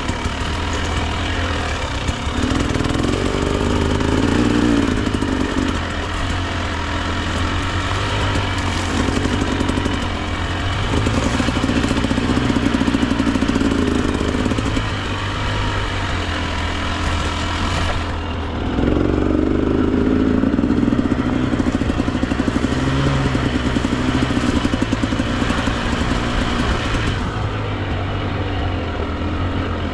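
Husqvarna TE 300 two-stroke dirt bike engine running under a rider on rough single track, the revs rising and falling in repeated bursts of throttle every few seconds.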